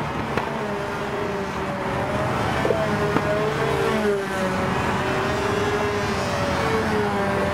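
Control line model airplane engine running at high speed in flight, one steady high buzz whose pitch rises and falls every couple of seconds as the plane circles past.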